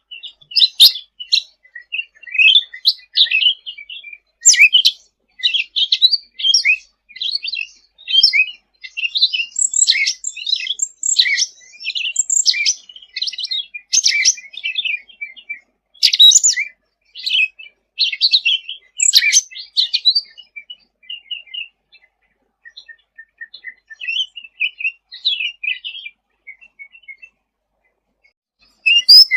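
Cucak ranting songbird singing in rapid, varied high chirping phrases, thinning to quieter twitters for a stretch in the last third, then a sharp loud note near the end.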